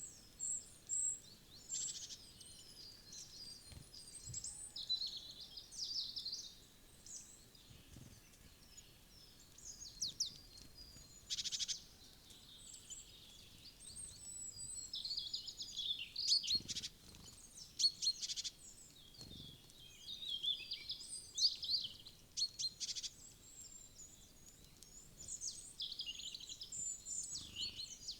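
Small songbirds chirping and calling: many short, high calls and trills overlapping throughout, with a few sharp clicks scattered among them.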